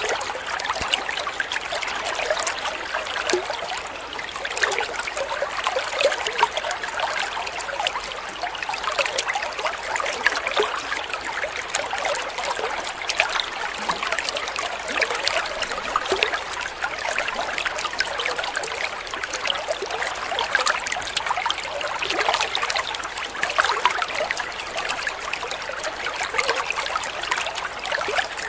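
Running water trickling steadily, like a small stream, with a constant fine splashing.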